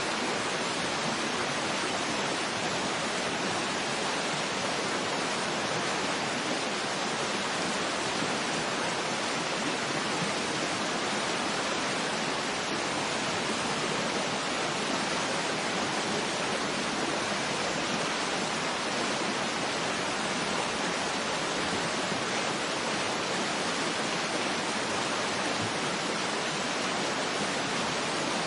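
Waterfall: a steady, even rush of falling water with no change in level or pitch.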